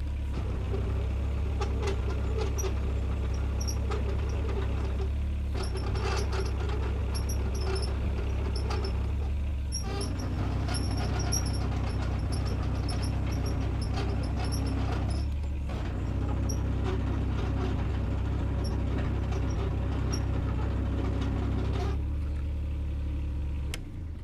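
Takeuchi TB014 mini excavator's diesel engine running while the tracks and hydraulics are worked in several spells of a few seconds each, a test run after fitting new track pad wear sensors. The engine is shut off near the end.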